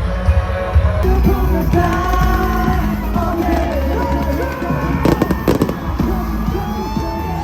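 Loud live pop concert music with singing and a crowd, recorded close to a phone's microphone. It changes abruptly about a second in. A quick cluster of sharp bangs comes about five seconds in.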